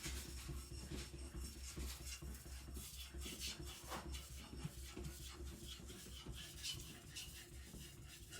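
Faint repeated scraping strokes of a large chopper blade drawn across a wet Japanese water stone, smoothing the shoulder behind the edge. A steady low hum runs underneath.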